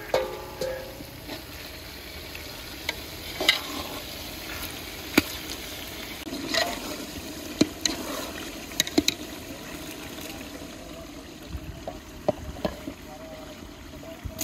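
Sliced tomatoes and fried onions sizzling in hot oil in a large metal cooking pot. A metal slotted spatula stirs the mix, giving scattered sharp knocks against the pot, with a short metallic ring right at the start.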